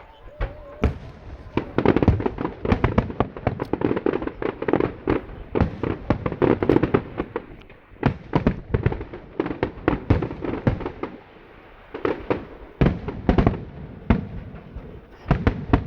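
Aerial fireworks bursting over the sea, dozens of bangs in rapid succession. They are densest in the first half, ease off briefly about two-thirds through, then come again in clusters.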